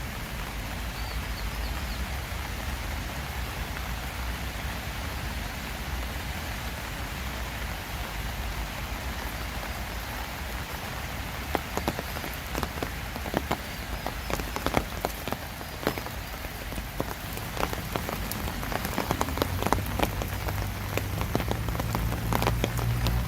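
Steady summer rain falling, with individual heavy drops ticking sharply more and more often from about halfway. A low hum builds near the end.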